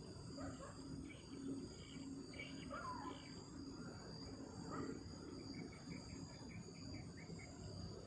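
Night insects, crickets, chirring steadily as a continuous high shrill, over a low rushing rumble. A few faint short calls come in the middle, and a quick run of ticking chirps comes near the end.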